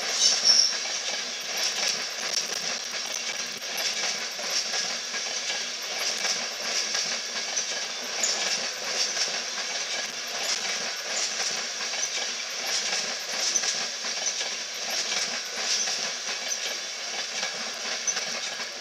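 Electric InterCity 225 train of Mark 4 coaches rolling slowly past, its wheels clicking over rail joints and points with a steady running hiss. There is a brief high wheel squeal about half a second in.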